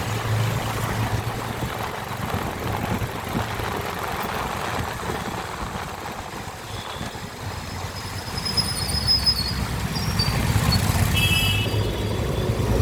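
Royal Enfield Hunter 350 motorcycle's single-cylinder engine running steadily. From about two-thirds of the way in, short high-pitched chirps sound over it.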